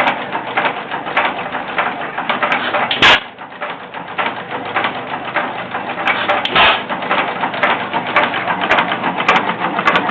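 1914 Associated 4 hp single-cylinder hit-and-miss engine running: a steady mechanical clatter of its valve gear and governor while it coasts, broken by two louder bangs about three and six and a half seconds in where it fires.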